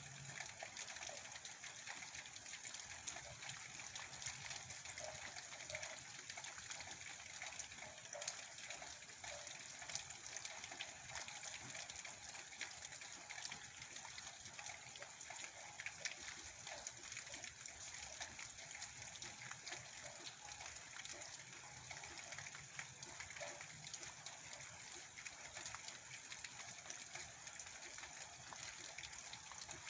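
Steady heavy rain falling, a continuous even wash of sound dotted with many small drop hits.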